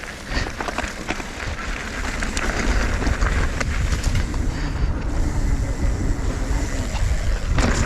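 Mountain bike rolling fast downhill on a dirt trail: wind rushes over the camera microphone and the tyres and frame rattle and click over the ground. It grows louder as the bike picks up speed, with a heavy thump near the end.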